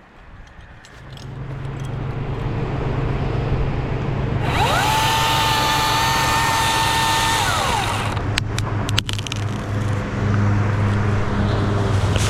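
A steady engine hum comes in about a second in. Halfway through, a chainsaw is revved up quickly, held at full speed for about three seconds while cutting, then let off, with a few sharp clicks after it.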